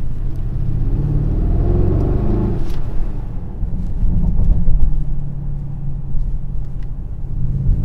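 Mercedes-AMG GLS 63's 4.0-litre twin-turbo V8 under acceleration, rising in pitch over the first couple of seconds, then running on at a steady deep drone.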